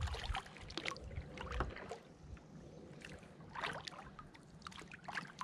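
Kayak paddle strokes in calm creek water: the blade dips and splashes and water drips off it, a stroke every second or two at an uneven pace.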